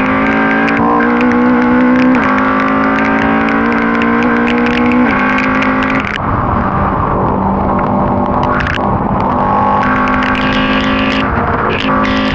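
Ford Cortina race car's engine under hard acceleration: its pitch climbs and drops sharply twice, about two and five seconds in, as it changes up, then eases off and turns rougher around six seconds before pulling steadily again.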